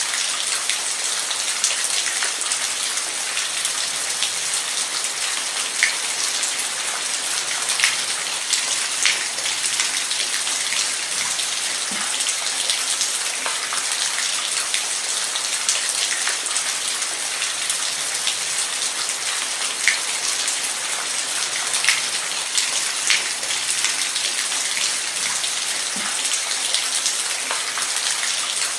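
Steady rain, a dense even hiss with individual drops ticking sharply on a surface here and there.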